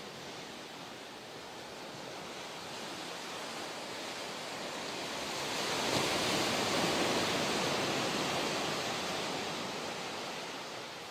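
Ocean surf on the coast: a steady wash of waves that swells as a wave breaks about six seconds in, then slowly eases.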